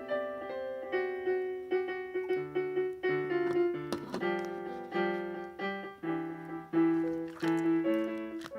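Background piano music, a melody of distinct notes over chords.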